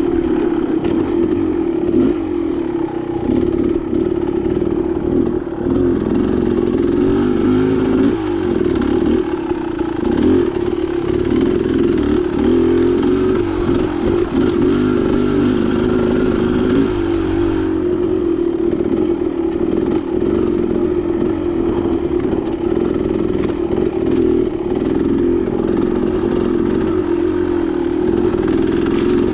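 Dirt bike engine running continuously, its pitch rising and falling as the throttle is worked, with clattering from the bike over the trail.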